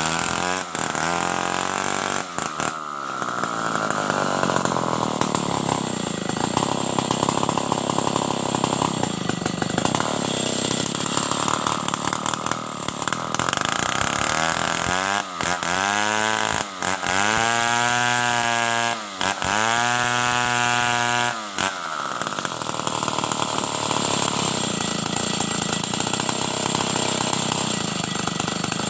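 Stihl 070 two-stroke chainsaw running hard while sawing wood. Three times near the middle the engine revs up to a high, even pitch for a second or two and then drops back.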